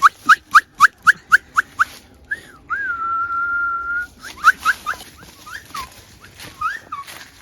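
A person whistling signals that imitate birdsong, used by hunters to communicate silently so the birds take it for fellow birds. It opens with a quick run of about eight short rising whistles, then one long steady whistle, then a few scattered rising and falling notes.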